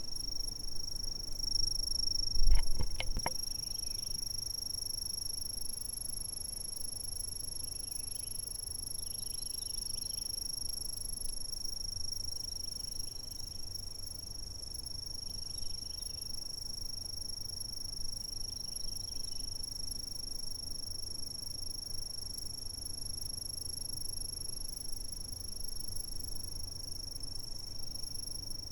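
Insects chirping: a continuous high-pitched trill holding one steady tone, with softer, lower chirps of another insect coming in every few seconds. About two and a half seconds in, a brief cluster of sharp clicks or knocks is the loudest sound.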